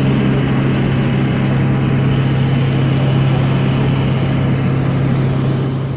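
Steady, even drone of a vehicle's engine heard from inside it, with a strong low hum.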